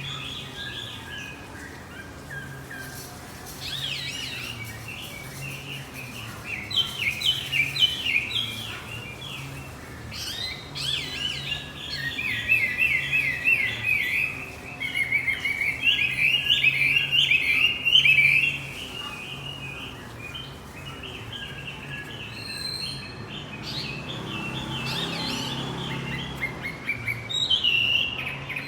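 Male wambi songbird singing: spells of rapid, high chirping notes strung into quick phrases, with short lulls between them. A faint steady low hum runs underneath.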